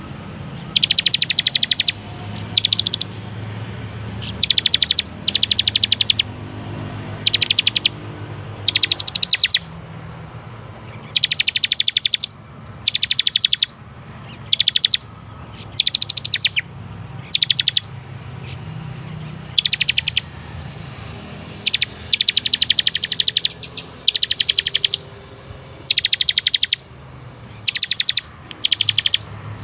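Bar-winged prinia (ciblek) singing in an energetic run: short bursts of rapid, high-pitched trilling notes, repeated about every second, over a steady low hum.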